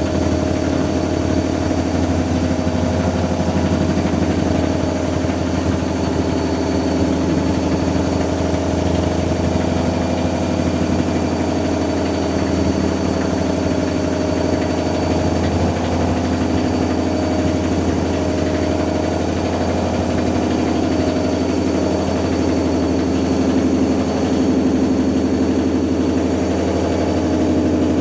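AEG washing machine spinning a fully loaded drum: its motor gives a loud, steady hum and whir, with a slight waver in pitch.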